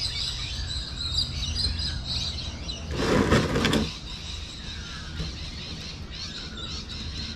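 Small birds chirping and twittering throughout. About three seconds in comes a short, louder rush of noise lasting under a second.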